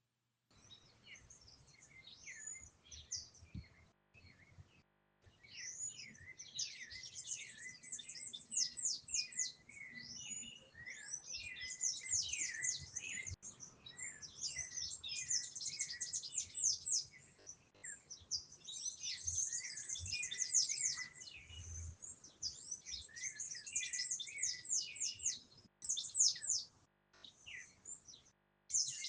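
Many small birds chirping together in quick, high chirps. The calls are sparse at first, then become a dense chorus from about five seconds in, with a short lull near the end.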